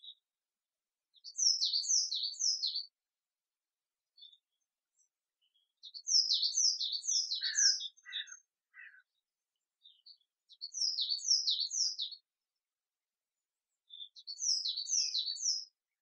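Songbird singing four short phrases with pauses between, each a quick run of high, down-slurred notes, on a clean, noise-free background.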